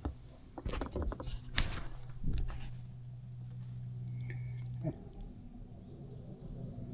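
Insects buzzing steadily in a high, even band. A cluster of knocks and rattles comes in the first couple of seconds, then a low steady hum holds for about three seconds and stops.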